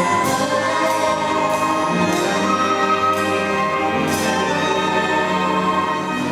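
Orchestra playing an instrumental passage of a folk song, with held chords and several sharp percussion strikes in the first four seconds.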